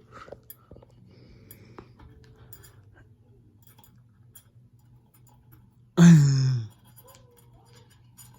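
Low steady hum of a Harbor Breeze ceiling fan running, with faint ticks. About six seconds in comes one short, loud vocal sound that falls in pitch.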